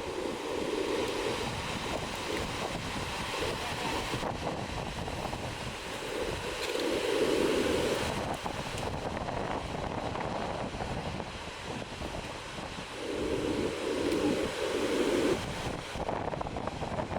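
Ocean surf breaking on the shore in rough pre-typhoon seas, with wind buffeting the microphone. The sound swells louder twice.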